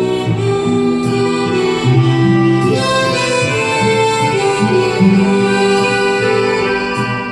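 Harmonica playing a slow melody in long held notes.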